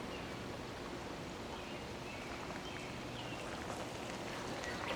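Faint songbirds giving a few short, scattered chirps over a steady outdoor hiss.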